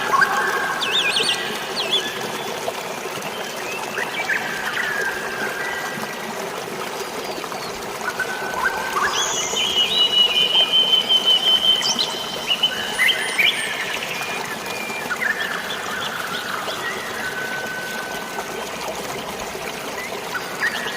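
Steady rush of flowing water, like rain and a waterfall, under a chorus of tropical forest birds chirping and whistling. About ten seconds in, one bird holds a long high trill for a couple of seconds.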